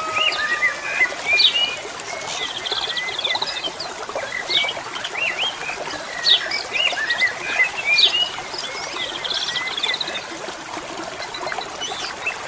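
Asian pied starling (jalak suren) singing a run of varied whistles and chirps, many of them rising or falling in pitch, over the steady trickle of flowing water.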